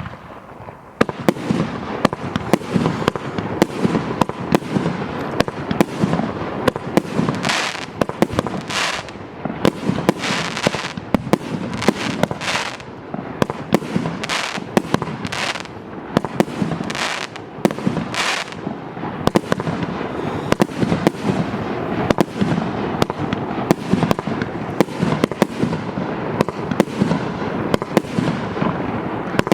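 Maxsem MC12200 fireworks firing a continuous rapid barrage of shots and bangs, starting about a second in, with several louder hissing bursts in the middle.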